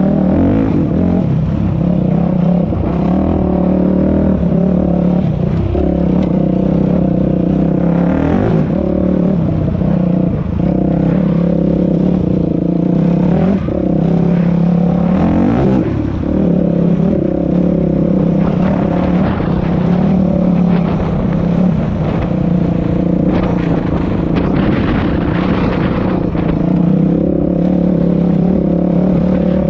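Dirt bike engine running under way on a trail, its pitch rising and falling several times as the throttle is opened and closed.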